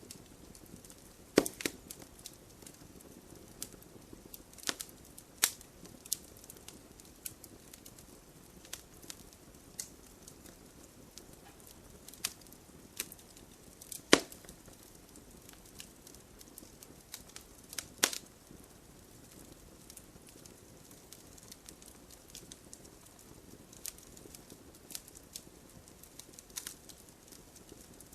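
Wood fire burning in a fireplace: irregular crackles and sharp pops over a soft steady hiss, with a few louder pops standing out.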